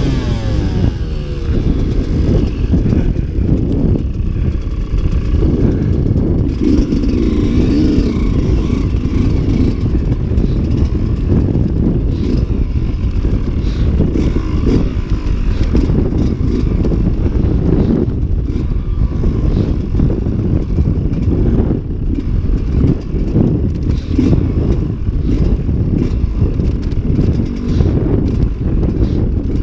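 Off-road motorcycle engine running with rising and falling revs, under a dense low rumble and rattle.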